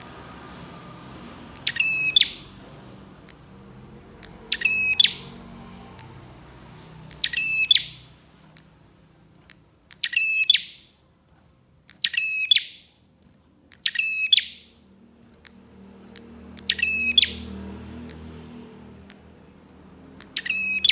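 Prenjak (prinia) calling in short bursts of rapid, sharp chattering notes, about eight bursts repeated every two to three seconds, with a faint low rumble beneath.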